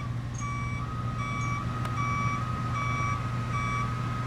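Reversing alarm of a CSX Sperry rail-test hi-rail truck, beeping at an even pace a little faster than once a second as the truck backs off the tracks, with its engine running underneath.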